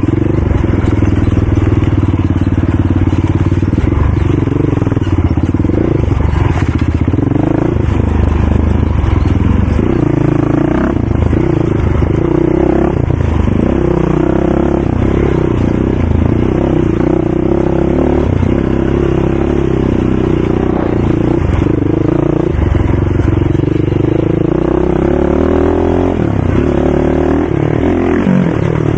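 ATV engine running close by, its revs rising and falling again and again as it is ridden.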